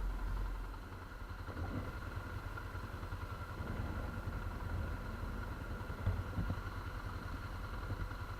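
ATV engine running steadily at low revs, close by.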